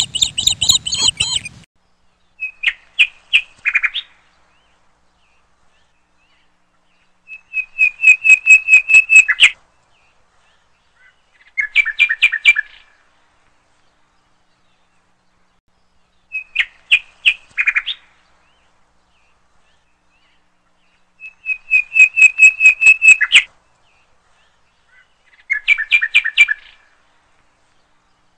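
A bird calling in quick runs of sharp, high repeated notes, each run lasting one to two seconds, about seven runs separated by a few seconds of silence.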